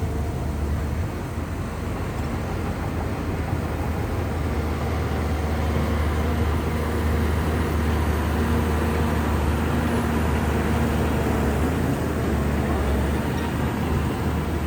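Diesel engine of a large Shantui bulldozer running steadily with a deep hum, a little louder through the middle.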